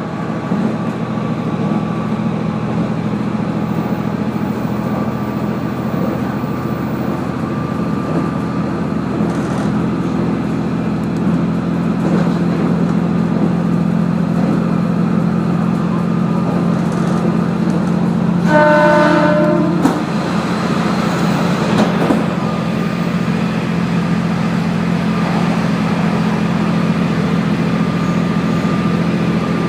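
Diesel railcar running along the line, its engine making a steady drone under the rail noise. About two-thirds of the way in, a horn sounds once for about a second and a half.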